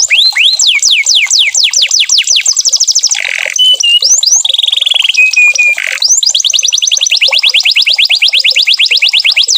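Canary singing: fast trills of rapidly falling whistled notes, about eight a second, broken in the middle by a harsh burst, a few short steady whistles and a buzzy note before the rapid trill resumes.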